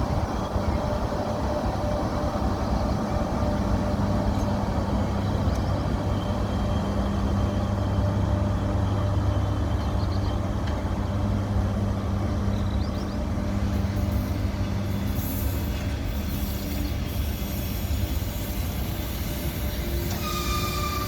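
ЭП1М AC passenger electric locomotive starting its train away from a station: a steady low electrical hum under running noise, with a whine that climbs in pitch near the end as it gathers speed.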